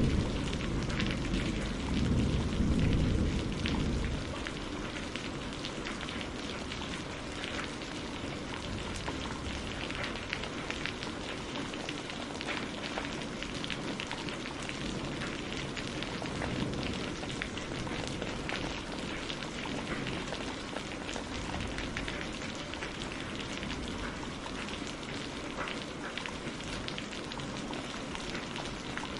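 Steady rain falling on a greenhouse roof, many separate drops audible in a continuous hiss. A low thunder rumble dies away in the first few seconds.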